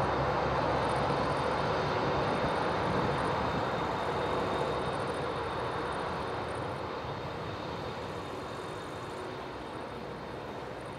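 Airbus A300-600ST Beluga's twin turbofan engines, a steady jet rumble that fades gradually as the aircraft moves away after landing.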